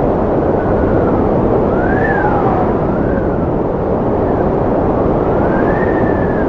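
Strong wind blowing: a steady loud rush with whistling tones that rise and fall every second or two.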